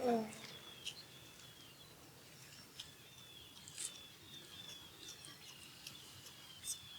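Ospreys calling: a series of short, high whistled chirps that fall slightly in pitch and repeat irregularly. A louder falling call comes right at the start.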